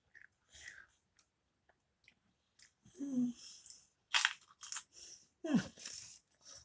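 A person biting into and chewing a Pringles crisp. After a quiet start there are sharp crunches from about three seconds in, loudest a little past the middle.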